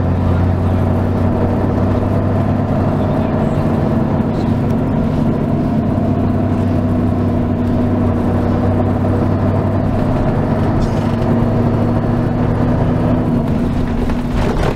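Mercedes-Benz O 403 SHD coach's V8 diesel engine running at a steady pitch, heard from inside the bus, with a slight shift in engine note about two-thirds through and a brief knock near the end.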